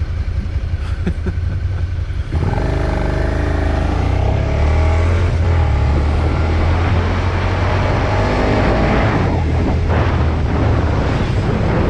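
Suzuki motorcycle engine ticking over at a stop, then about two seconds in pulling away and revving up, its pitch rising as it accelerates; it climbs again near the end.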